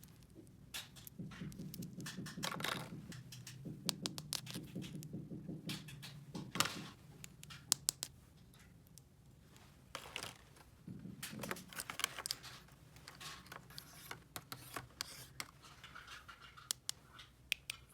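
Small plastic toy pieces being handled and set down: a string of light clicks, taps and scrapes, with bursts of rustling.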